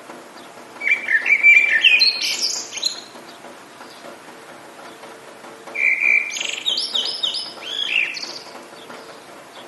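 A songbird sings two quick phrases of chirps and trills, about a second in and again near six seconds, over a steady hiss of rain.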